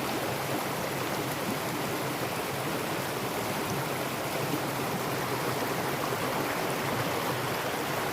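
Mountain stream water rushing and splashing over rocks, a steady continuous sound.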